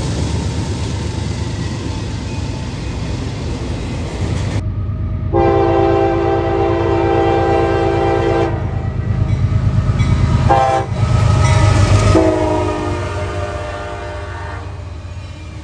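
Diesel freight locomotive horn sounding a long blast, a short one and another long one, over the steady rumble of the locomotive and rolling train.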